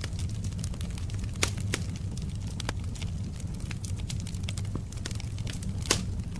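Wood fire crackling in a fireplace: a steady low rumble with frequent sharp pops and snaps, two louder pops about a second and a half in and near the end.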